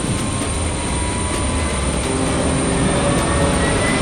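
Jet aircraft engines as a steady, rushing roar with a faint rising whine, slowly growing louder.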